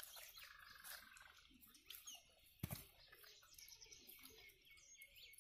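Near silence with faint, high bird chirps and one soft knock about two and a half seconds in.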